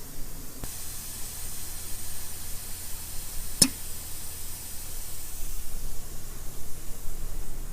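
Compressed-air hiss of a powder coating spray gun, starting with a click about half a second in and running steadily, with one sharp click about three and a half seconds in.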